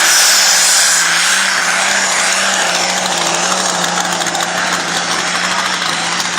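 Engine of a tractor-pull vehicle running hard at a steady pitch, easing slightly after about a second.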